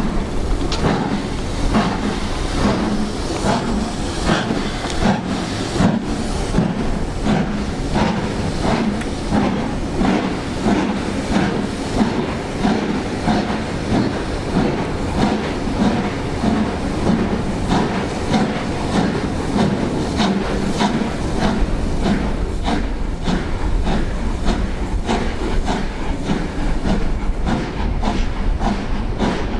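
LMS Black Five steam locomotive 44932 working a train, its exhaust beats and steam hiss coming in a steady rhythm over the rumble and clatter of the coaches on the rails.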